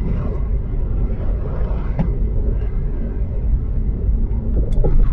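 Steady low engine and road rumble inside a manual car driving on a snow-covered road, with a light click about two seconds in and another near the end.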